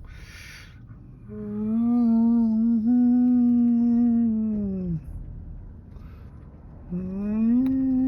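A voice humming two long held notes, each a few seconds long. The first note slides down in pitch as it ends, and the second begins near the end.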